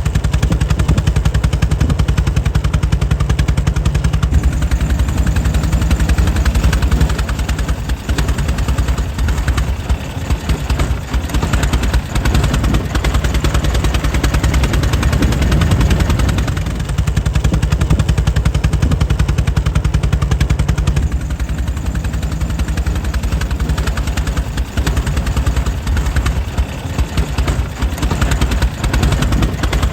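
Air-cooled 1904 Mitchell engine running steadily, a fast, even string of firing pulses.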